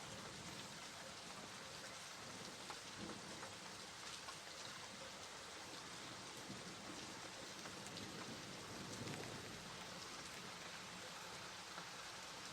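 Steady rain falling, a soft even hiss with scattered individual drops ticking through it.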